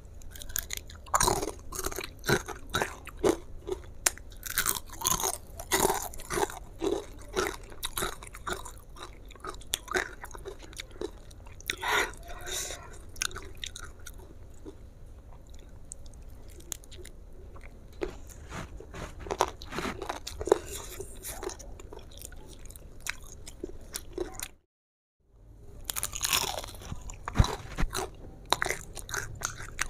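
Close-miked crunching and chewing of crispy battered fried chicken, with sharp crackling bites of the crust. The crunches come thick and fast in the first dozen seconds and grow sparser after. The sound cuts out completely for about half a second near the end, then the chewing resumes.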